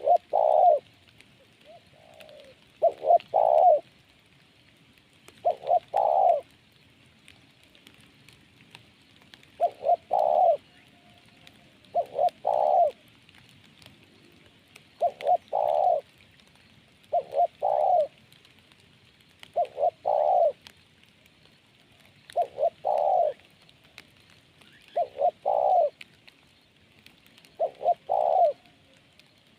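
Spotted dove cooing: a short phrase of two or three deep coos, repeated about every two to three seconds.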